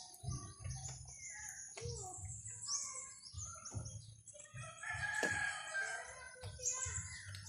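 A rooster crowing once, about two-thirds of the way through, over many small birds chirping and twittering throughout, with repeated low thumps underneath.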